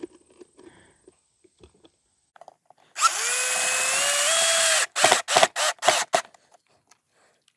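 Power drill driving a screw: after a few quiet seconds, one run of about two seconds with the motor pitch rising, then about six short trigger bursts.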